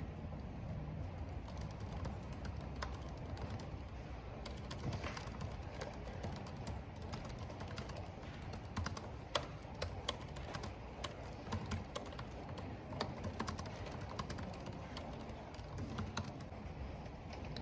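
Typing on a computer keyboard: a run of quick, uneven key clicks from about four seconds in until near the end, over a steady low rush of wind and rain.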